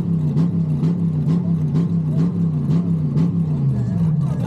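Car engine held on a two-step launch limiter, its note bouncing off the limiter about twice a second with a crackle of exhaust pops each time.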